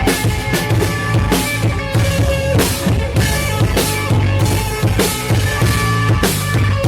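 Live instrumental post-rock: a full drum kit with crashing cymbals and snare over a heavy bass line and sustained electric guitar notes.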